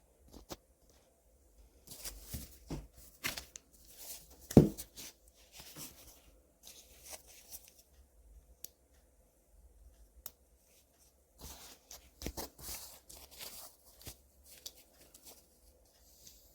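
Handling noise: irregular rustling and light clicks, with one sharp knock about four and a half seconds in.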